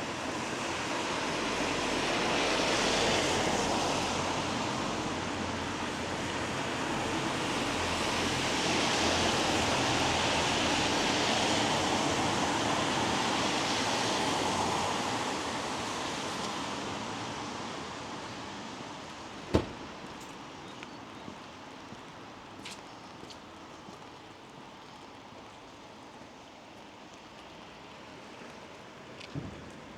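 Cars passing on a wet road, their tyres hissing as they swell past twice and then fade to a quieter street hiss. A single sharp tap about two-thirds of the way through, with a few fainter ticks after it.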